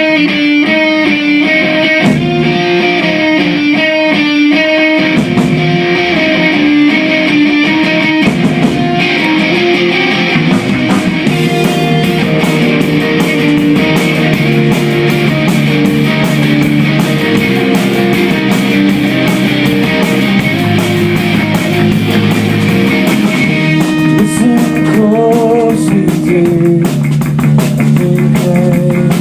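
Live rock band playing the instrumental introduction of a song: guitar picking a repeated figure, with bass guitar and drum kit.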